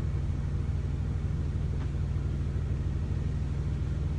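Semi-truck engine idling, a steady low rumble.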